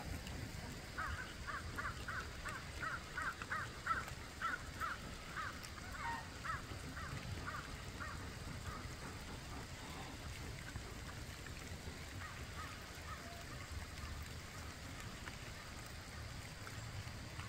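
A bird giving a quick run of short, harsh repeated calls, about four a second, that fade out about eight seconds in, with a few fainter calls later. A steady low rumble runs underneath.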